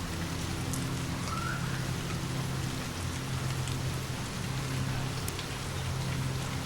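Steady rain falling, with a continuous low rumble underneath and a few faint scattered ticks.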